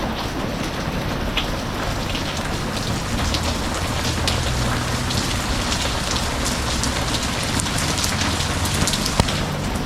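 Steady rain falling and pattering on a surface, with many small drop ticks, and one sharper tick about nine seconds in.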